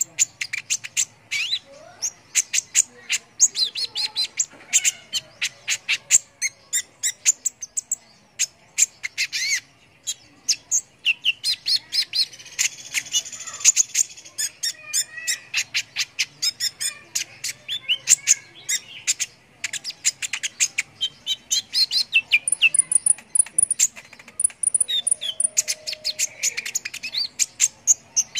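Kolibri ninja (a sunbird) singing energetically: a rapid, unbroken run of sharp, high chirps and short twittering trills, many notes a second.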